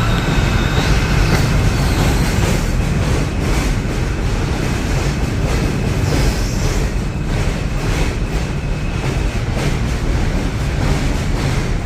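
New York City subway F train pulling out of the station: a steady heavy rumble, with the wheels clacking over the rail joints in quick, uneven clicks.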